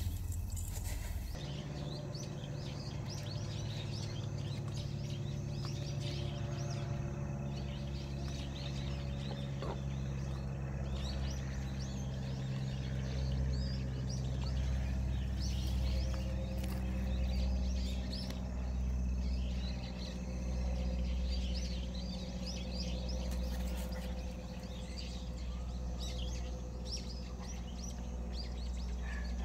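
Small birds chirping and twittering throughout, over a steady low hum.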